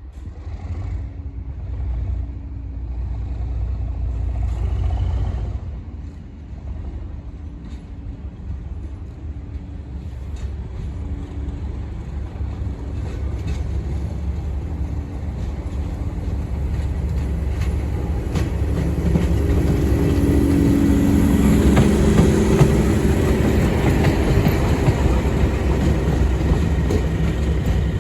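English Electric Class 37 diesel locomotives under full power, their turbocharged V12 engines thrashing. The engine sound builds steadily and is loudest about three quarters of the way through.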